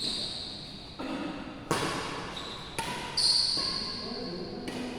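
Badminton play on an indoor court: a few sharp racket strikes on the shuttlecock, roughly a second apart, mixed with high-pitched squeaks of shoes on the court floor, ringing in the hall.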